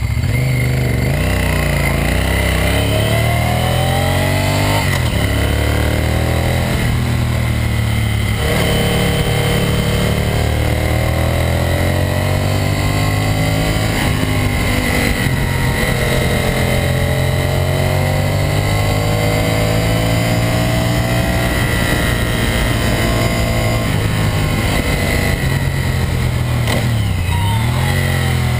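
Honda VTR1000 Firestorm's V-twin engine accelerating under load, its revs climbing and then dropping sharply at gear changes about five and eight seconds in. The revs then rise and fall, with a sharp dip near the end.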